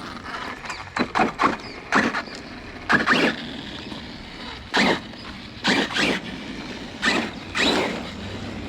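Arrma Kraton 6S RC car driven in a run of short throttle bursts on wet ground, about ten quick surges of motor and tyre noise over a steady background hiss.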